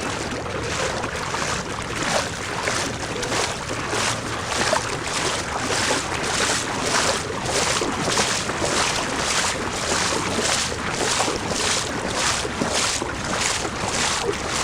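Someone wading through floodwater, each stride swishing and sloshing in an even rhythm of about two a second.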